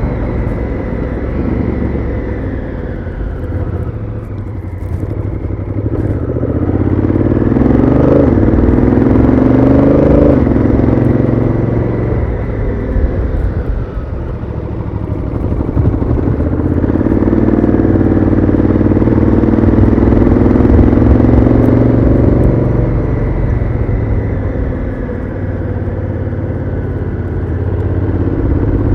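Honda Africa Twin CRF1000L's parallel-twin engine through its stock exhaust while riding: it pulls up in pitch with sudden drops at the upshifts of its dual-clutch gearbox, eases off, then pulls again through the middle of the stretch.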